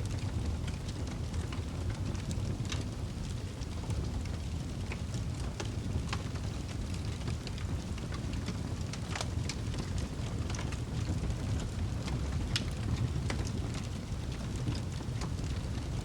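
Wood fire burning in a fireplace: a steady low rumble of flames with irregular crackles and pops every second or so.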